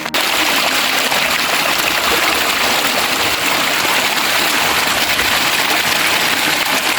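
Loud, steady rush of running water, starting abruptly.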